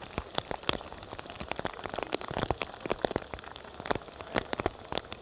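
Rain falling, with large drops hitting close to the microphone as many irregular sharp taps over a light hiss.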